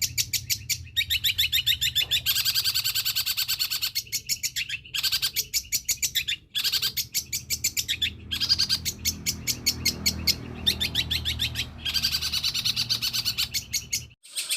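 Long-tailed shrike (cendet) singing a long run of fast, high chattering notes, broken by a few short pauses, its song filled with mimicked calls of other birds. A steady low hum runs underneath.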